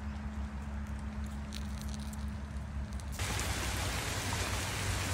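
Steady rain falling on trees and leaf litter, a dense even hiss that starts abruptly about three seconds in. Before it there is only a low steady hum with a few faint clicks.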